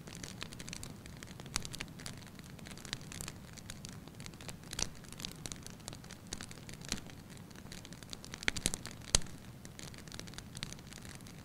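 Wood fire crackling in a fireplace: a low steady rush of flames with irregular sharp pops and snaps, a cluster of them shortly before the loudest pop a little after nine seconds.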